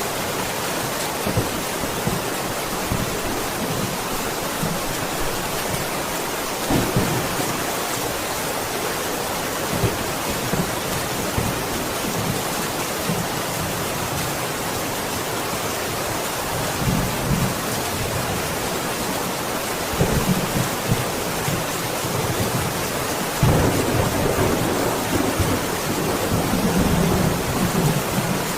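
Steady, dense rain falling, with low rolling rumbles of thunder, several in the second half and the longest near the end.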